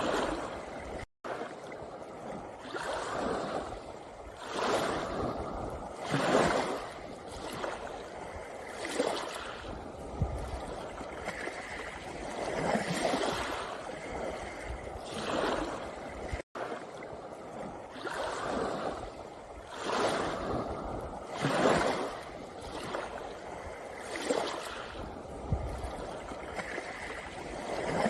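Small sea waves washing in and out over a pebble beach, a fresh surge every two to three seconds. The sound cuts out for an instant twice, about a second in and about halfway through.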